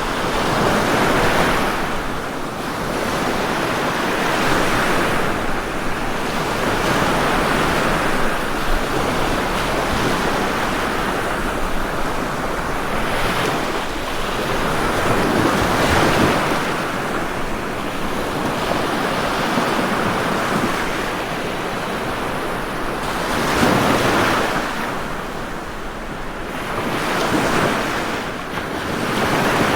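Ocean waves breaking and washing up a shore, a continuous rushing that swells and falls back every few seconds, with stronger surges now and then.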